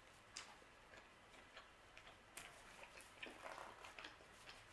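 Faint, irregular little clicks and crunches of chewing a bite of thin-crust pizza, a few more of them in the second half.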